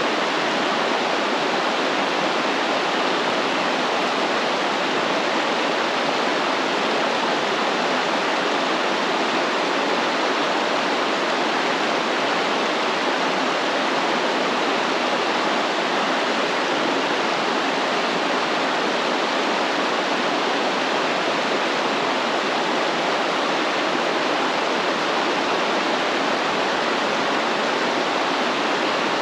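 Stream water flowing steadily: an even, continuous rush of running water with no change in level.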